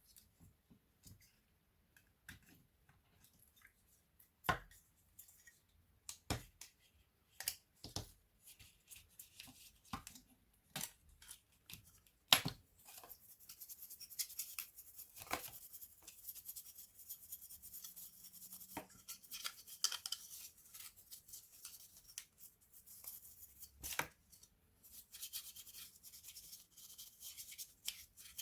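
Hands working on a laptop's small plastic and metal parts: scattered sharp clicks and taps, then from a little before halfway a long stretch of scratchy rubbing.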